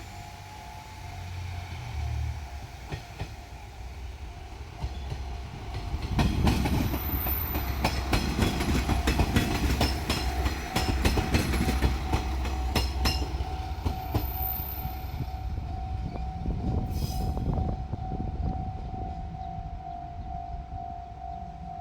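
A level crossing's warning bell rings steadily and rapidly throughout. A JR Shikoku diesel multiple unit passes over the crossing from about 6 to 13 s, its wheels clacking quickly over the rail joints above the low rumble of its engine, then fades away.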